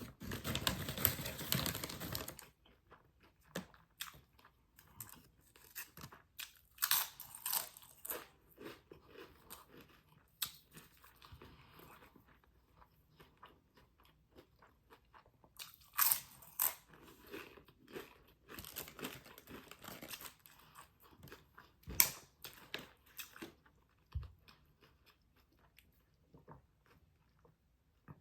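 Close-miked chewing and crunching of food, in irregular bursts: a long loud crunchy stretch at the start, several more bursts spread through, and quieter wet chewing clicks between them.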